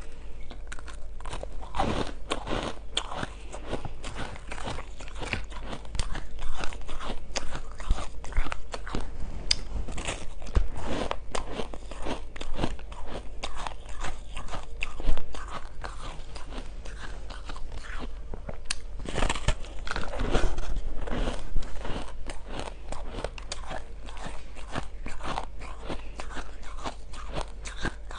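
Close-up biting, crunching and chewing of frozen purple flavoured shaved ice, a dense run of irregular crunches with no pause.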